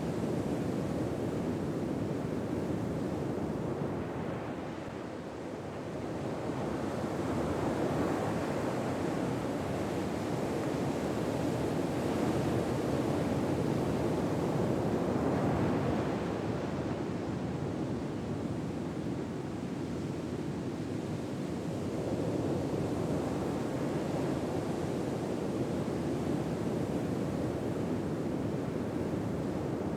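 Ocean waves washing onto a shore: a steady rush of surf that slowly swells and eases, dipping twice about fifteen seconds apart.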